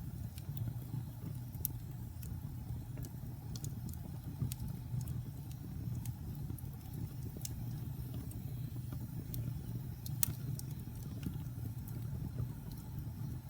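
Log fire burning in a fireplace: a steady low rumble of flames with scattered sharp crackles and pops, the loudest pop about ten seconds in.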